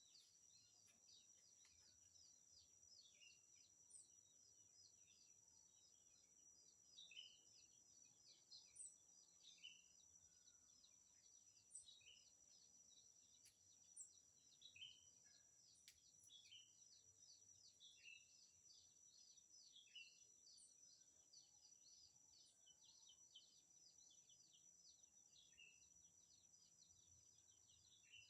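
Faint wild bird chirps, short high calls every second or two, over a steady high-pitched drone and a fizz of tiny ticks.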